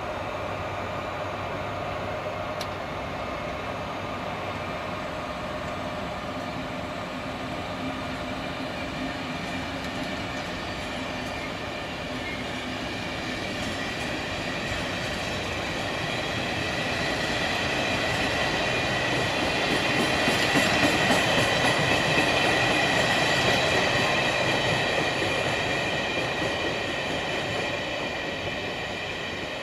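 Passenger train rolling through a station: continuous rumble of wheels on rail with steady high tones over it. It grows louder past the middle and eases off near the end.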